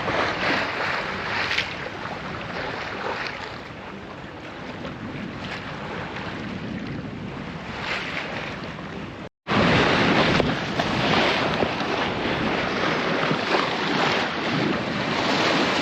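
Wind buffeting the microphone over water rushing and splashing along the hull of a sailboat under way. The sound cuts out briefly about nine seconds in and comes back louder.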